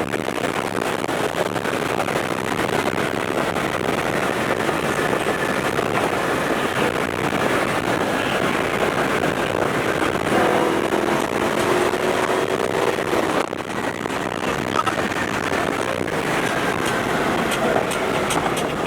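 A car driving fast: steady engine, tyre and wind noise, with the engine note rising and falling briefly about ten seconds in.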